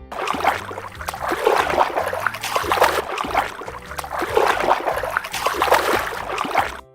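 Water splashing and trickling, a dense run of small splashes that starts abruptly and cuts off abruptly: a sound effect for a fish.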